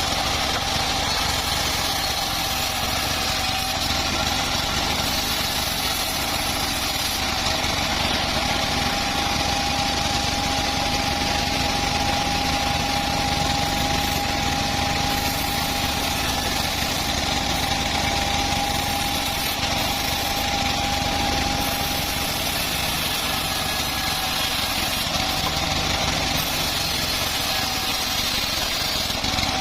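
Homemade bandsaw sawmill running steadily, with a constant high whine over the machine noise, while sawing a large old teak log.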